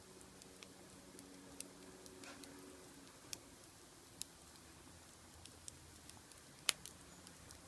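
Wood fire crackling, with scattered sharp pops and ticks, the loudest about seven seconds in.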